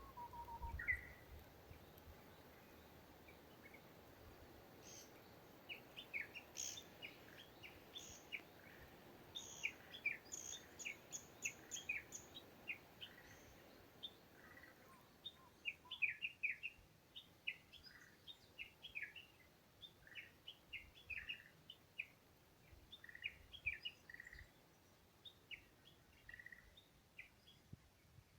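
Faint wild birdsong: many short, quick chirps and twitters from several birds overlapping, over a quiet outdoor background.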